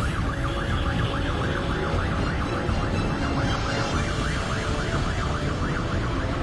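Police siren yelping, its pitch sweeping up and down quickly a few times a second, over a steady low rumble.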